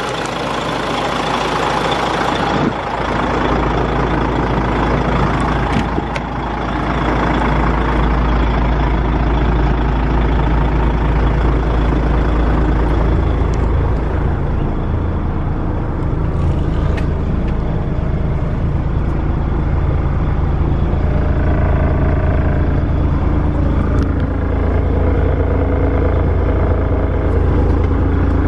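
DAF CF85.460 tractor unit's 12.9-litre six-cylinder diesel running steadily with a deep drone. A hiss cuts off after about two and a half seconds.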